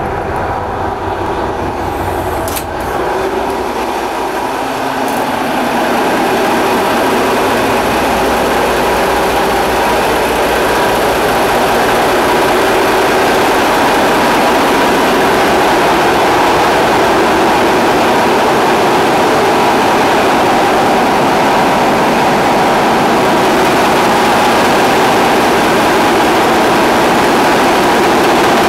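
Two Caterpillar 3612 V12 diesel engines running in a boat's engine room: a loud, steady mechanical din that grows louder over the first several seconds, with a single sharp click about two and a half seconds in.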